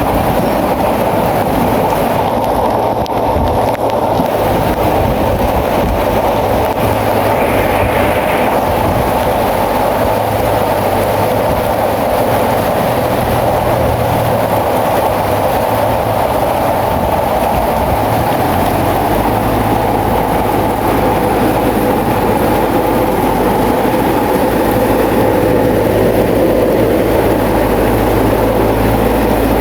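Crawler bulldozer at work, its diesel engine running steadily under load.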